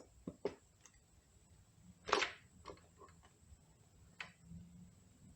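Scattered light clicks and knocks of transmission internals being handled, with one short, louder scrape about two seconds in.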